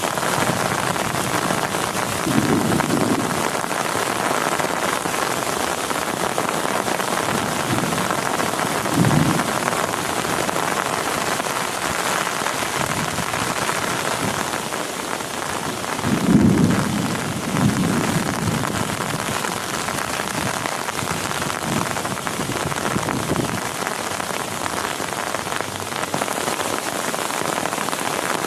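Heavy rain pouring steadily, with low rumbles of thunder rolling in about four times, the strongest about two-thirds of the way through.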